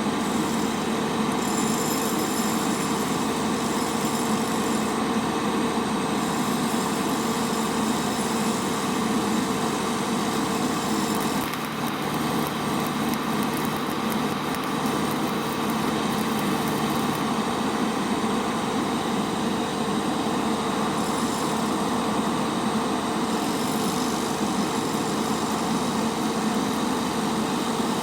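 An engine-driven welding generator running steadily, with a constant hum and a faint high whine.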